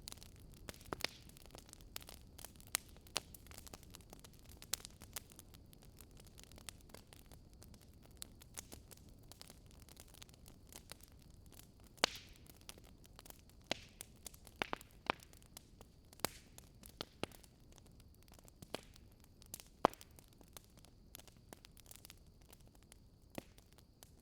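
Crackling campfire ambience: wood burning with irregular sharp pops and snaps over a soft, steady hiss.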